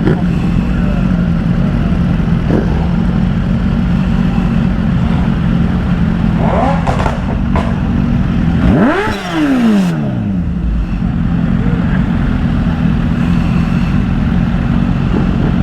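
Steady low rumble of idling engines, with one engine revving sharply about nine seconds in, its pitch climbing fast and then falling away.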